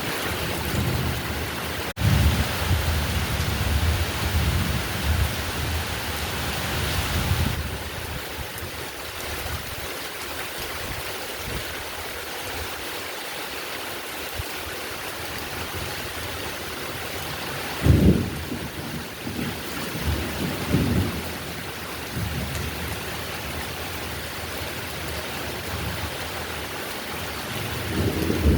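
Heavy rain falling steadily, with low rolling thunder. A sudden loud thunderclap comes about two-thirds of the way through, followed by further rumbles.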